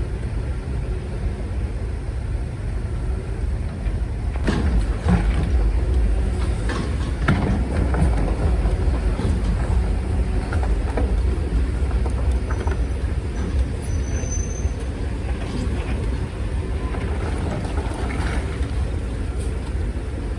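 Heavy diesel earthmoving machinery running with a steady low rumble, with scattered knocks and clanks, several in a cluster around the middle and one more near the end.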